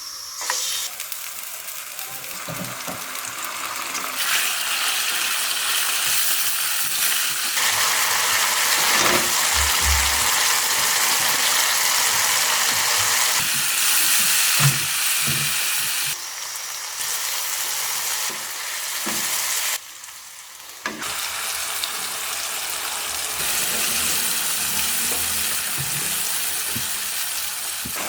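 Chicken frying and sizzling in a hot pan, with a few knocks of a utensil stirring it. The sizzle jumps louder and softer in several places, and drops away briefly near the two-thirds mark.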